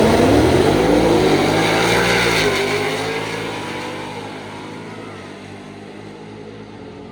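Drag car launching hard and accelerating down the strip, engine pitch climbing through the gears, then fading steadily as it pulls away.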